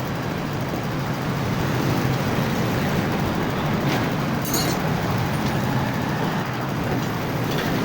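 Vehicle engine running steadily with a low hum, with a few light clicks about halfway through and near the end.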